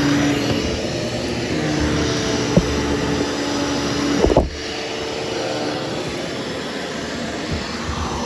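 13-inch Hoover Hushtone upright vacuum cleaner running steadily as it grooms carpet, with a steady hum under the motor noise. A light knock about two and a half seconds in and another about four and a half seconds in, after which it runs a little quieter.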